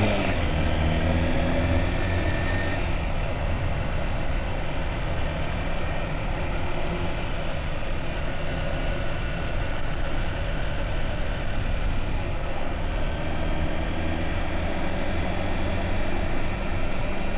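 Motorbike engine running steadily with a low, even hum.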